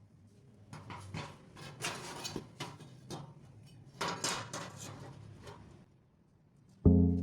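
Hard objects clattering and knocking: an irregular run of clicks, knocks and short rattles for about five seconds, as of parts being handled. Near the end, background music cuts in with a loud hit.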